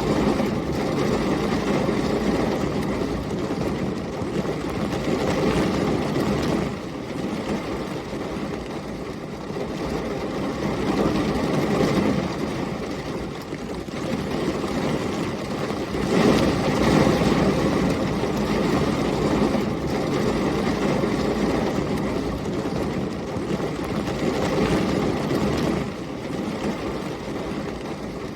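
Heavy rain with storm wind: a dense, steady rush that swells and eases every few seconds, heaviest in the low range.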